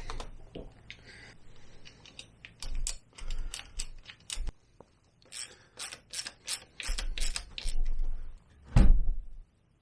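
Sharp metallic clicks of hand tools working on metal scooter engine parts, in quick irregular runs, then one heavier knock near the end.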